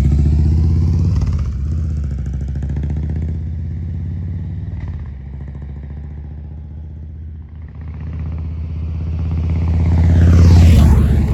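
Exhaust note of a Harley-Davidson Milwaukee-Eight 117 V-twin with a Tman-001 cam, through Cobra RPT 3-inch slip-on mufflers. It fades over the first several seconds, then swells again to its loudest about ten and a half seconds in before dropping off, as when the bike moves away and then passes close.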